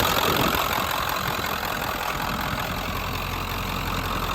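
Ford F-350's 7.3-litre Power Stroke turbo-diesel V8 idling steadily.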